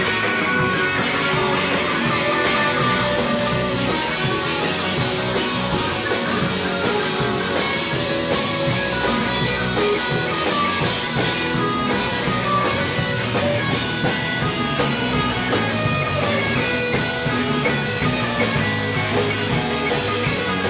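Live rock band playing an instrumental passage with electric guitar and drum kit, no vocals.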